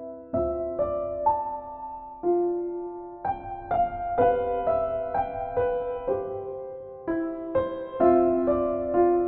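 Slow, gentle solo piano music: struck notes and chords that ring and fade, a new note or chord about every half second to a second.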